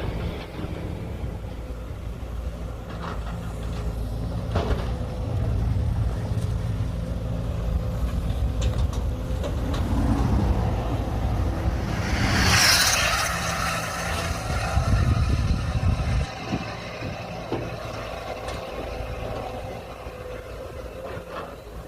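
Heavy diesel machinery running with a steady low hum, which drops away about three-quarters of the way through. A loud hissing burst comes about halfway through.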